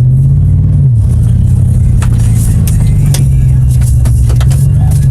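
GMC 3/4-ton truck's 6.0 gas V8 running through a newly fitted Flowmaster Super 44 muffler while driving: a deep, steady exhaust drone that drops in pitch about a second in. A few sharp clicks are heard over it in the second half.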